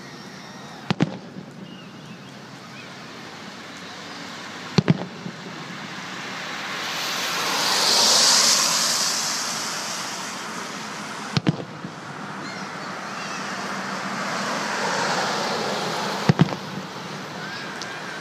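Aerial firework shells bursting with sharp bangs every four to six seconds, several coming in quick pairs. Between the bangs a broad rushing noise swells up and fades away twice.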